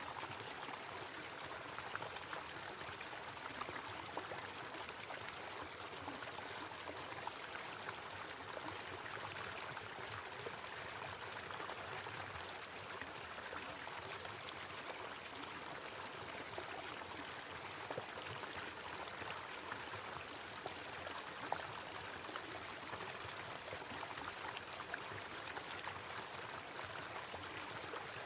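Small waterfall running steadily, water splashing and trickling with a constant rush.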